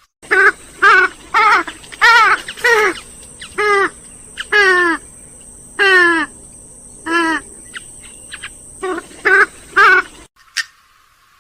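Grey-headed swamphen calling: a run of about a dozen loud calls, each under half a second, with a wavering pitch, several falling at the end. The calls cut off abruptly near the end.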